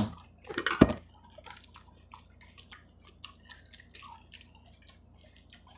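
Close-up wet chewing and mouth smacks of balut being eaten, with one sharp tap a little under a second in as a duck egg's shell is cracked, then small crackles of the shell being peeled.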